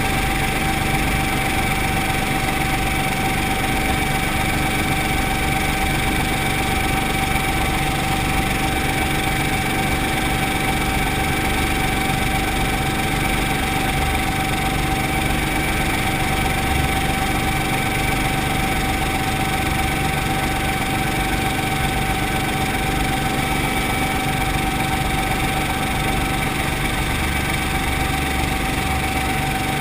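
Brantly B2B helicopter's four-cylinder Lycoming piston engine and rotor system running steadily, with an even high whine held at one pitch.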